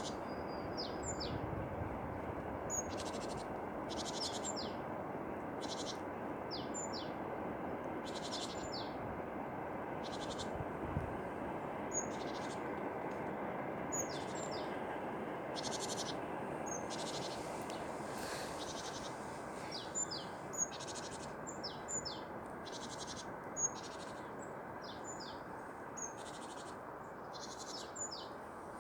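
Tits calling and singing: short, high chirps repeated every second or so, over a steady rushing background noise.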